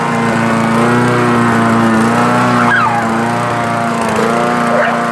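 Small lawn mower engine running steadily just after starting, its pitch wavering slightly. Two brief high squeaks sound over it, one about halfway through and one near the end.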